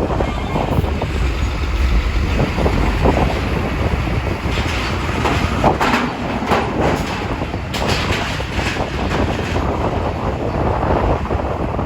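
Strong wind buffeting the microphone over the low, steady rumble of a ferry at sea, with a few sharper gusts about halfway through.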